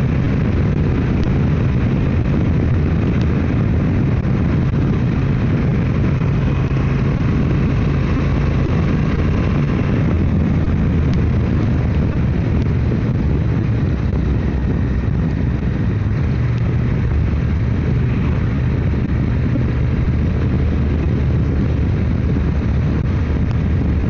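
Motorcycle engine running steadily at road speed, its low drone shifting slightly in pitch about ten seconds in and again near sixteen seconds, over a rush of wind and road noise.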